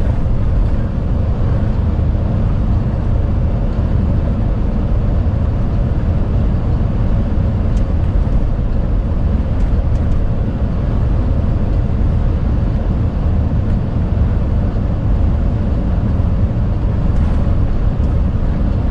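Strong wind rushing against a moving truck's cab, mixed with the truck's running and road noise; loud and steady throughout.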